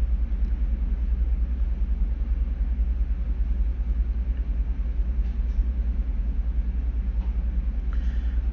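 Ship's engine room machinery running steadily: a deep, fast-pulsing rumble with a hiss of running pumps and motors over it.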